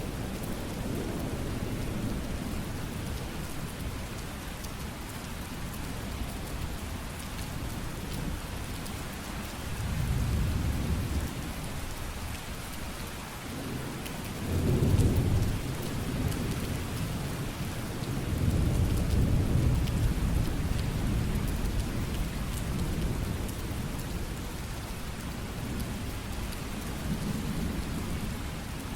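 Steady heavy rain with several slow, low rolling rumbles of thunder, the loudest about halfway through.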